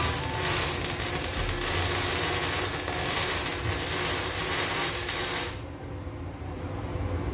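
Electric welding arc crackling and hissing while welding the exhaust pipe, then cutting off about five and a half seconds in.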